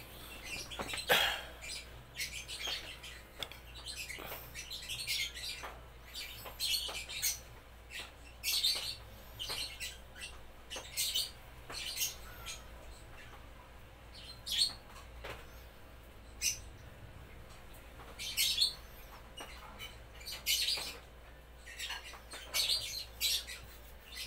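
Small birds chirping in short, high calls, several every few seconds, over a faint steady low hum.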